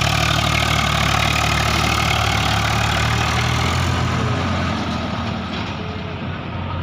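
Heavy diesel engine running steadily at a low, even speed. About five seconds in it gets slightly quieter and the hiss above the engine note fades.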